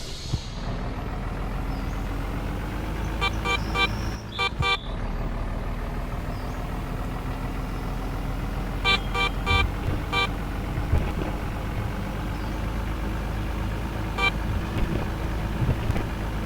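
Truck engine running on the move, its pitch slowly rising, with the horn sounding in quick strings of short beeps a few seconds in, again around the middle, and once more later.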